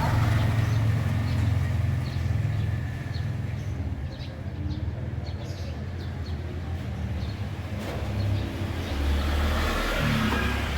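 Low, steady rumble of a motor vehicle running nearby, swelling a little near the end, with faint short chirps from small birds scattered through it.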